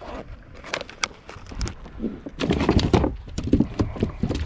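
Rapid, irregular knocks and thumps on a fishing kayak while a just-landed snapper and the tackle are handled. The knocking comes thickest in the second half.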